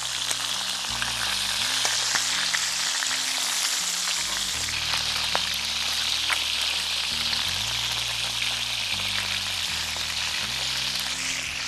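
Chicken pieces sizzling steadily in hot oil in a cast-iron pan, while metal tongs turn them over with occasional light clicks.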